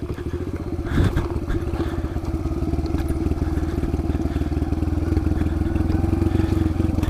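Kawasaki KLX110 pit bike's small single-cylinder four-stroke engine running steadily, with a brief clatter about a second in.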